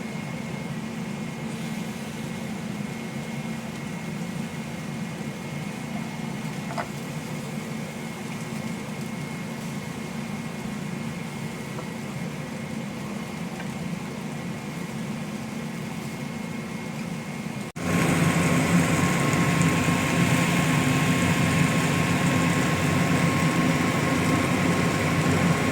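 Steady mechanical hum, like a kitchen appliance or fan running. It cuts off abruptly about 18 seconds in and is replaced by a louder steady hum with a faint whine.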